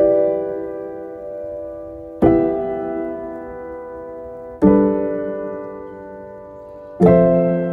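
Slow, calm piano music: sustained chords struck about every two and a half seconds, each left to ring and fade before the next.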